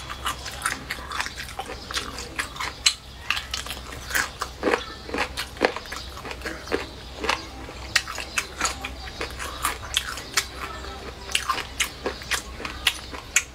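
Close-miked mouth sounds of a person biting and chewing braised Chinese lu wei food (bamboo shoots and meat), many sharp irregular clicks and smacks.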